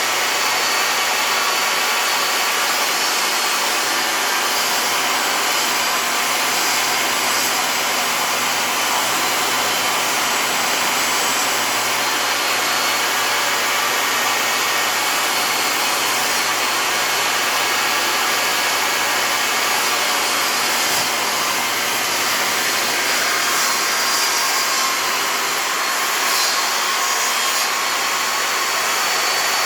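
A motor running steadily with a loud, even rush of air, like a shop vacuum or dust collector, with a faint high whine and no change in load.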